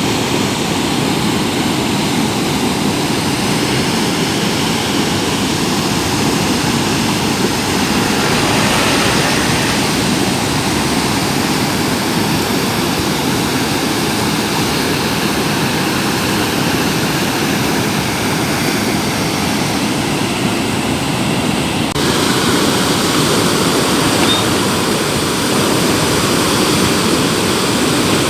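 Steady, loud rush of a river in flood, swollen by heavy rains.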